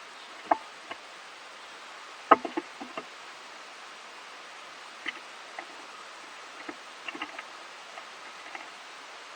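Squirrel feeding, making scattered sharp clicks and taps over a steady hiss, with a quick cluster of the loudest ones a little over two seconds in.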